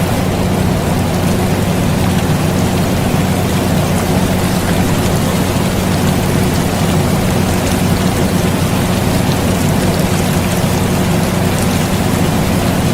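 Steady air conditioner hum mixed with continuous rain falling, with faint scattered drop ticks; the sound stays even, without change.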